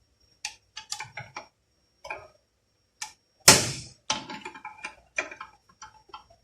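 Irregular metal-on-metal clicks and knocks as 6L80 automatic transmission parts are pushed and seated in the case, with one louder clank about three and a half seconds in.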